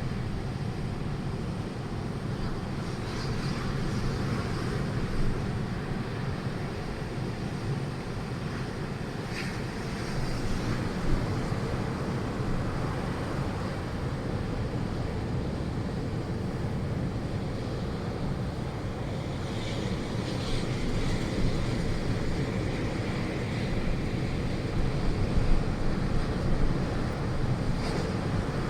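Strong storm wind blowing with a steady low rumble on the microphone.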